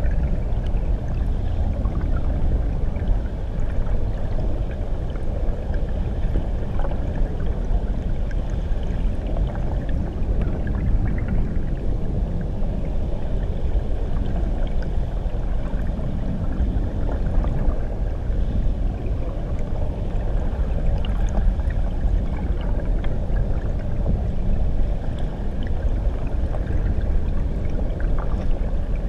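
Muffled, steady rushing of a waterfall heard from under the water, mostly a deep rumble with a few faint ticks scattered through it.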